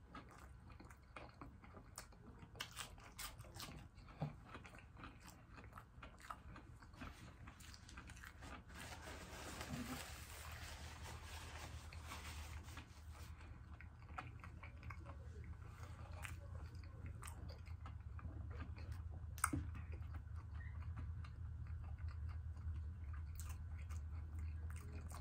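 Close-miked chewing of crispy fried seafood (battered fish and butterfly shrimp): many small crunches and wet mouth sounds, over a steady low hum.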